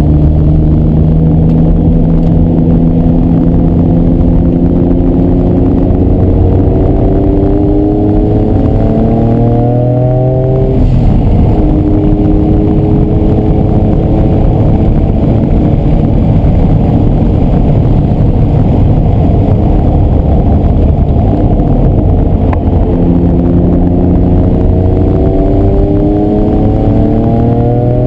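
Noble M500's engine heard from inside the cabin under hard track driving. The revs climb steadily for about ten seconds, drop sharply, hold fairly even for a while, then climb again, dropping once more at the very end.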